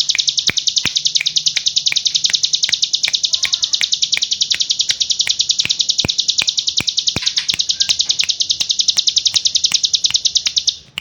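Ciblek gunung, a prinia, singing its 'ngebren' call: a fast, unbroken, machine-gun-like high trill with sharp clicks scattered through it, cutting off suddenly near the end.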